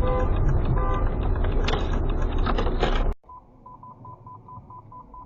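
A car driving, with steady road and engine rumble, cuts off abruptly about three seconds in. Then comes a quiet run of short, even beeps at one pitch, about four a second.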